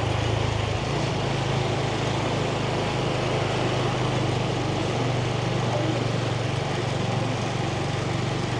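Yamaha 125 cc motorbike engine running at a steady, even pitch, heard from the rider's seat.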